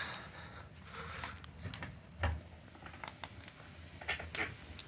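Scattered light clicks and knocks of handling, with one duller thump about two seconds in.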